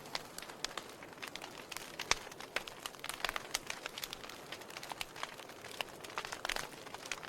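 Logs burning in a fireplace, crackling with many irregular sharp pops over a faint hiss. The loudest pop comes about two seconds in.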